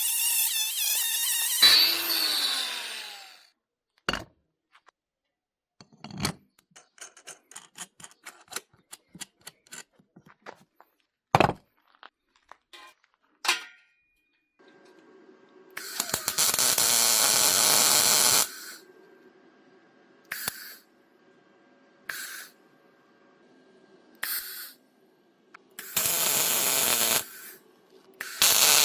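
Power drill/driver running, then spinning down with a falling whine, followed by scattered metallic clicks and knocks from hand-tool work, including a quick run of clicks. Later come several loud hissing bursts, each two to three seconds long, over a faint steady hum.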